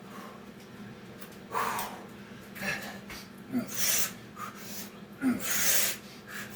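Heavy breathing of a person recovering between sets of Navy SEAL burpees: four or five loud, noisy breaths, the longest ones in the second half.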